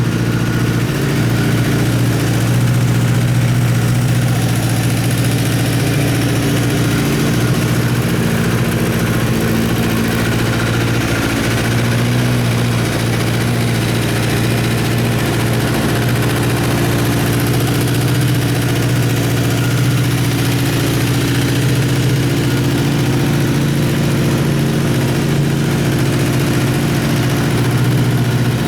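Honda CBX550F2 Integra's air-cooled inline-four engine idling steadily at an even speed.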